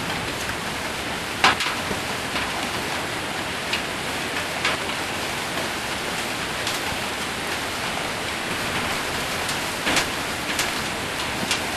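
Heavy rain with hail drumming on a metal roof: a steady hiss broken by scattered sharp strikes of hailstones, the loudest about a second and a half in and again near ten seconds.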